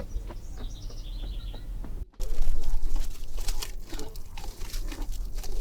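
Small birds chirping in short repeated high notes. About two seconds in, the sound cuts abruptly to a louder stretch of sharp clicks and knocks.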